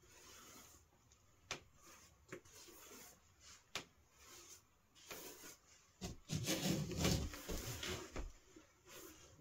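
Handling and working noises: a few sharp clicks and knocks, then about two seconds of louder rustling and scraping.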